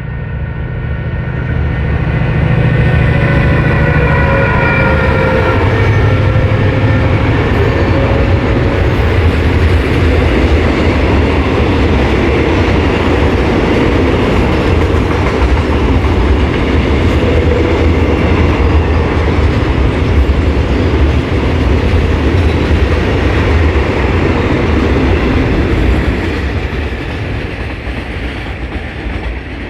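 Diesel freight train passing at close range: the locomotive's engine runs, with steady high tones sliding slightly lower over the first nine seconds or so. After that comes a long, steady rumble and clatter of container flat wagons rolling over the rails, which fades near the end.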